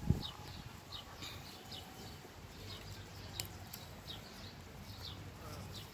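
Small birds chirping in the background: short, high, falling notes repeated two or three times a second. A single low thump sounds right at the start.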